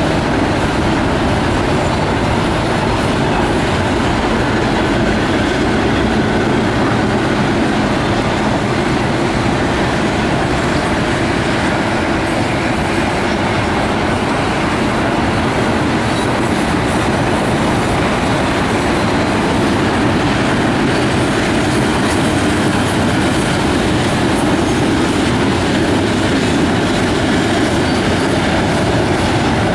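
Double-stack intermodal freight cars of a CSX train rolling past: a steady, loud rumble and clatter of steel wheels on the rails, without let-up.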